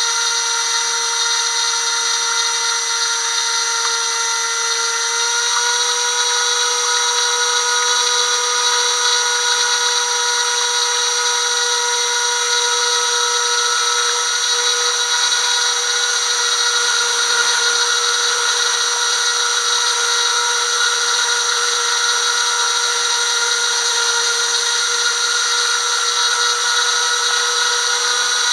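Steady high-pitched whine of a radio-controlled FPV craft's electric motors, with several fixed tones over a hiss. The pitch shifts slightly about five seconds in.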